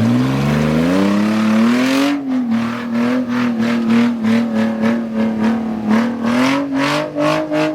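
Off-road 4x4 engine revving up over about two seconds, then held at high revs under load, with a rapid, irregular clatter over it for the rest.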